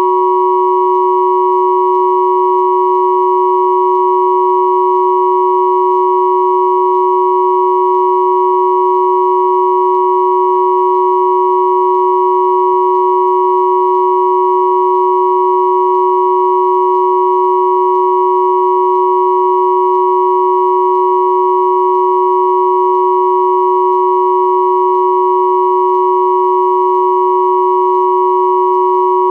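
Steady electronic pure tones at 369 Hz, 963 Hz and 1111 Hz sounding together as one unchanging, continuous combined hum, with faint higher overtones.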